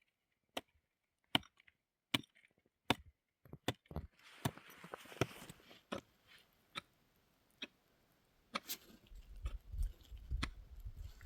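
A series of sharp knocks or chopping strikes, roughly one a second, with a short stretch of noise about four seconds in and a low rumble starting near the end.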